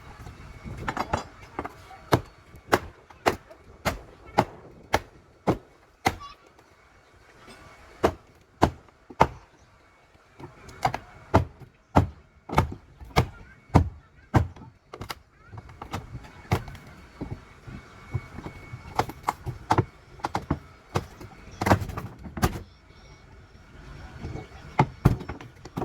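Hammering: repeated sharp blows, about two a second, in runs broken by a few short pauses.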